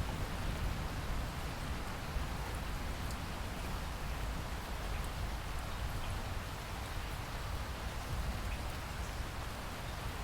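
Steady heavy rain falling: an even hiss with scattered faint drop ticks and a low rumble underneath.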